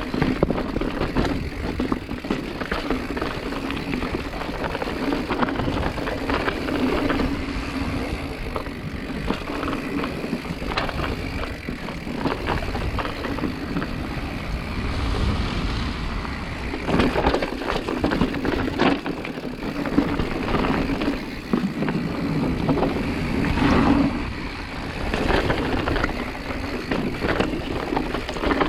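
Continuous rattling and rumbling of a mountain bike ridden over rough ground, with many short knocks and clatters over a steady noisy rush.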